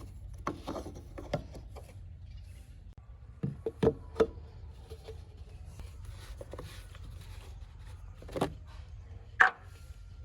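A handful of short knocks and taps, the loudest near the end, over a steady low hum.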